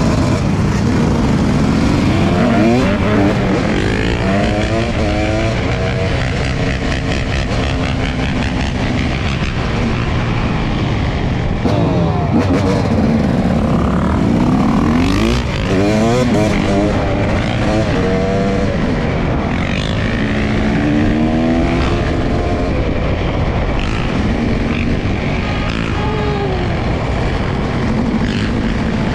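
Dirt bike engines revving up and down over and over, pitch repeatedly rising and falling, with the steady noise of riding underneath.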